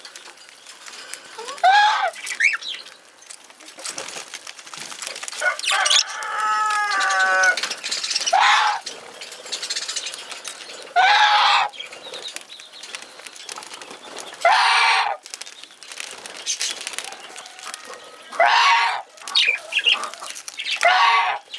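Budgerigars calling: loud, short squawky calls every few seconds, one longer warbling call about six seconds in, with softer chirping between them.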